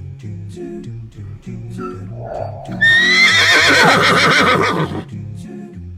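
A horse whinnying once, loud and about two seconds long, its pitch wavering and falling away, just after a short breathy snort. Light children's background music plays under it.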